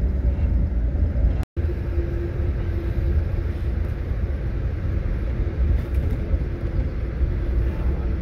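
Steady low rumble of an Amtrak Northeast Regional train running at speed, heard from inside the passenger coach. The sound cuts out for an instant about a second and a half in.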